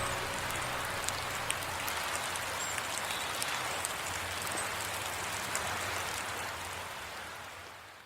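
Steady rain falling, with scattered drip ticks, fading out near the end.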